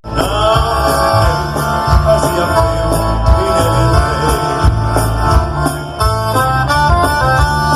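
Live band music, instrumental, with a steady beat of drums and bass under held melody notes. It cuts in after a brief dropout at the very start.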